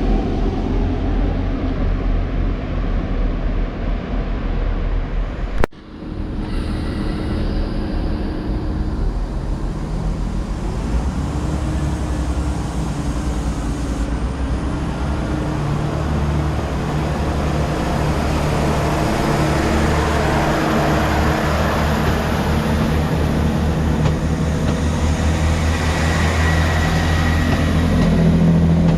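Diesel train engines running at a station, with a steady low drone. There is a sharp click and a brief drop about six seconds in. After that an engine note rises, and a growing rush of noise builds toward the end.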